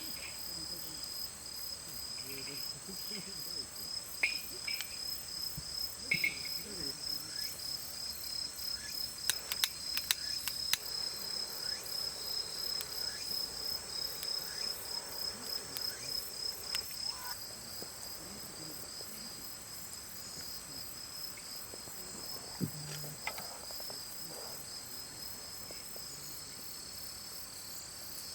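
Crickets and other night insects chirping steadily in high, pulsing trills, with a few faint clicks scattered through.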